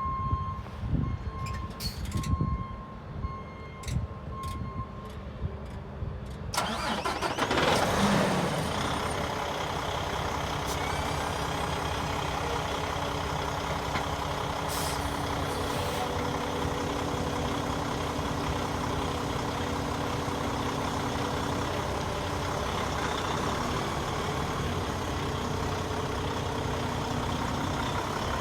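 An interrupted warning beep with a few clicks, then about six and a half seconds in the Kenworth T660 truck tractor's diesel engine cranks and starts. It rises briefly and settles into a steady idle.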